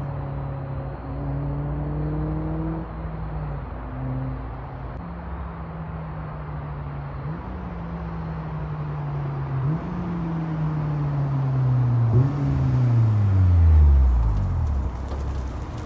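Honda S2000's four-cylinder engine through a Remark EQZ exhaust while driving. Its pitch climbs and jumps with gear changes, then falls away steeply and grows loudest near the end.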